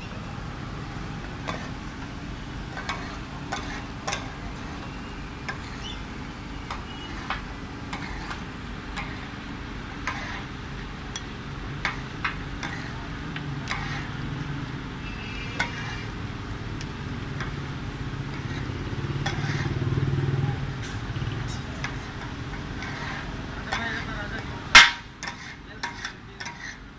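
Chicken tawa masala sizzling on a flat iron tawa, with frequent short knocks and scrapes of the cooking and one loud sharp knock near the end. A low rumble swells in the middle, with background voices.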